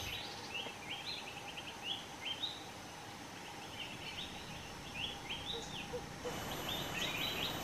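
Birds chirping: many short, rising calls, some in quick runs of several notes, over a steady background hiss. The background changes abruptly about six seconds in.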